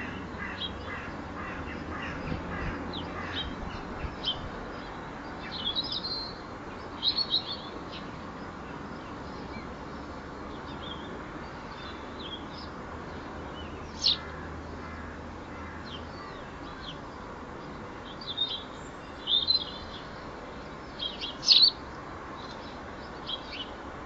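Small garden birds giving short, high chirps, scattered singly and in quick clusters, the loudest a double chirp near the end, over a steady background hiss.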